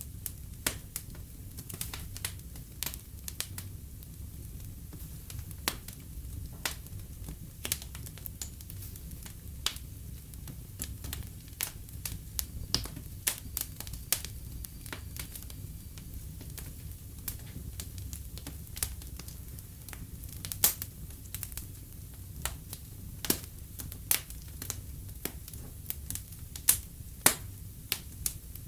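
Wood fire burning in a fireplace: irregular sharp crackles and pops over a soft low rumble of the flames, with a few louder pops in the last third.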